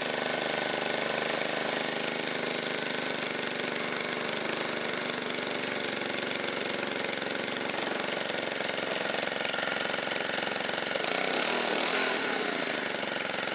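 Shindaiwa EB254 Hybrid4 four-stroke blower engine running steadily after a restart, its pitch and level briefly shifting about eleven seconds in. It runs smoothly on a new fuel filter and a cleaned air filter.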